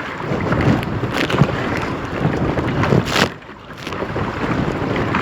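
Wind buffeting the microphone over choppy river water splashing around a kayak, with a few sharper splashes about a second in and around three seconds in. The wind dies down briefly just after.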